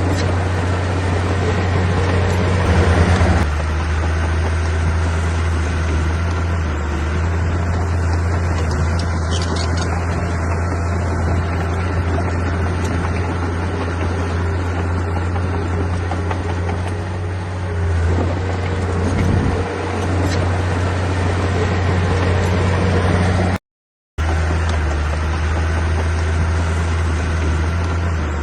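Heavy diesel engine of earthmoving machinery running steadily under work, a deep, even drone with a busy noisy layer above it. It cuts out completely for a split second near the end.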